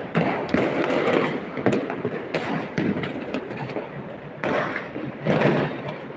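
Fireworks going off: many sharp bangs and pops at irregular intervals over a steady rumble of noise.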